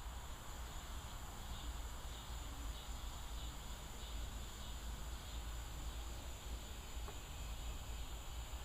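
Evening insect chorus: a steady high-pitched buzz of crickets or katydids with softer chirps repeating through it, over a steady low rumble.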